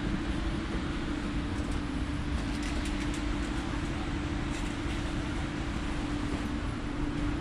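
Steady hum inside a stationary electric train carriage, with a constant low tone under an even rumble and a few faint clicks about halfway through.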